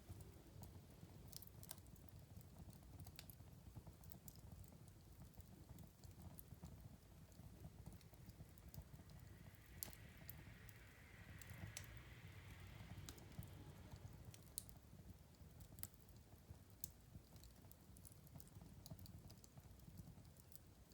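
Wood fire crackling in a fireplace: faint, irregular sharp pops and snaps over a low steady rumble, with a soft hiss swelling for a few seconds around the middle.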